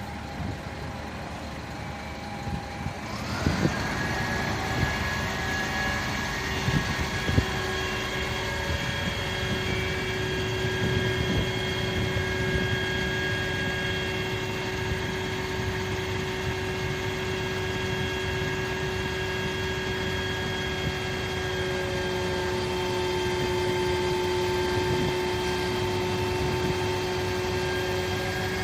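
Fire truck engine running, then spooling up about three seconds in to a steady high whine that holds, with a low rumble underneath.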